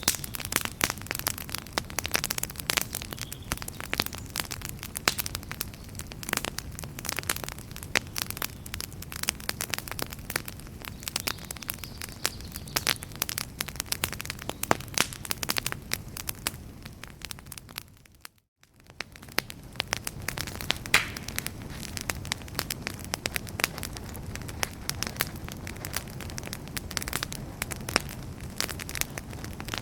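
Wood campfire crackling, with dense, irregular pops and snaps over a steady hiss of flame. A little past the halfway point the sound fades almost to silence for a moment, then comes back.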